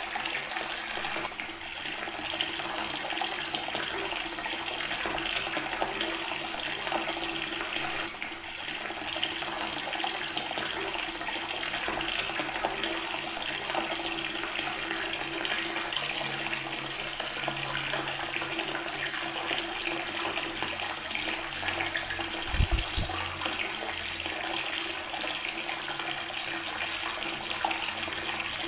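Water from a tap running steadily and splashing onto natural stone. A single brief low thump comes about three-quarters of the way through.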